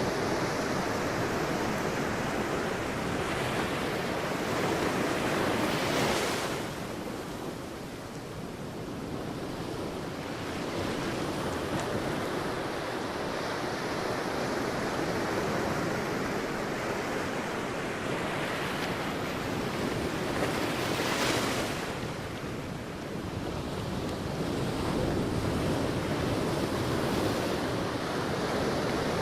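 Sea waves breaking on a beach: a steady rush of surf that swells and ebbs, with two waves breaking, about six seconds in and again about two-thirds through, each followed by a quieter wash.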